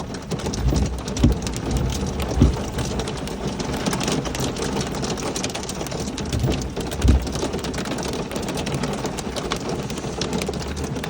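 Heavy rain mixed with hail falling in a thunderstorm: a steady hiss full of fine, rapid clicks of stones striking surfaces. A few brief low thumps stand out, about a second in, about two and a half seconds in, and around seven seconds in.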